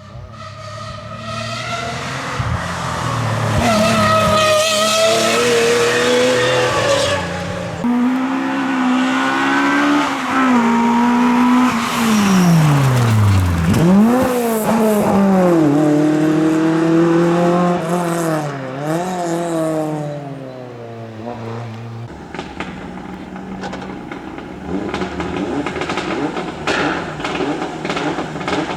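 Rally car engine revving up through the gears, dropping steeply in pitch as it slows and downshifts, then revving and pulling away again. Near the end the engine note gives way to a rougher noise with scattered sharp cracks.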